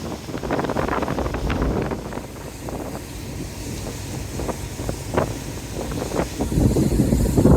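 Strong gusty wind buffeting the microphone over a low rumble. It eases about two seconds in and builds again near the end.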